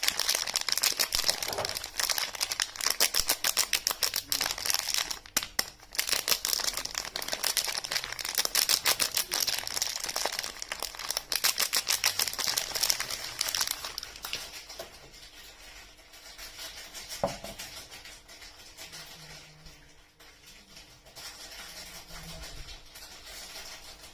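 Soap wrapping being handled and unwrapped, with a dense crinkling crackle for about the first fourteen seconds. After that the handling is softer, with a single knock a little past the middle.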